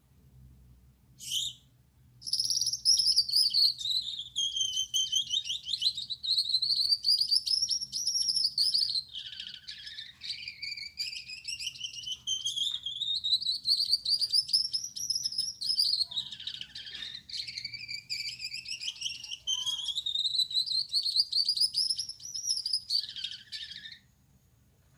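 Male Gouldian finch singing: a short call about a second in, then one long buzzy song of some twenty seconds whose pitch sweeps slowly up and down, ending abruptly near the end.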